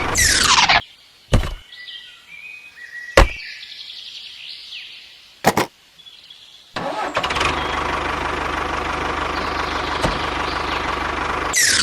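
Edited sound track with abrupt cuts: a short sweeping whoosh, a few sharp clicks, then from about seven seconds in a vehicle engine running steadily.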